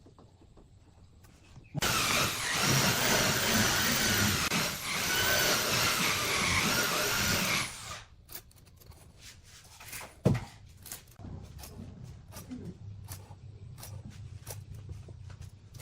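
An electric power tool runs for about six seconds with a high motor whine, starting suddenly about two seconds in and cutting off abruptly. After that come scattered clicks and knocks.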